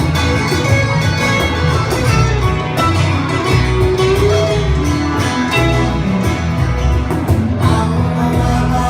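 Live band playing an instrumental passage: guitars over bass guitar and keyboard, with a lead guitar line sliding over the chords.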